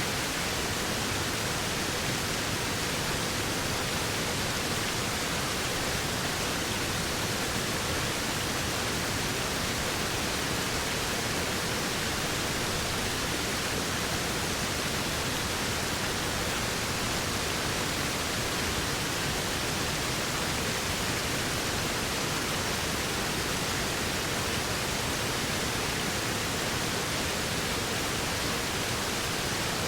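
Waterfall, water falling and rushing in a steady, unbroken hiss.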